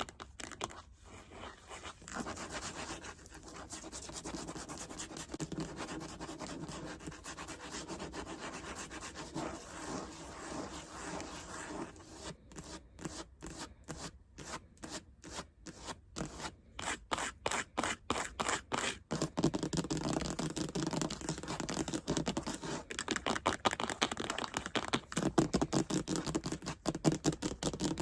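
Fingernails scratching and rubbing on a surface in a steady, dense run. Around the middle it breaks into quick separate strokes, a few a second, before steady, louder scratching resumes.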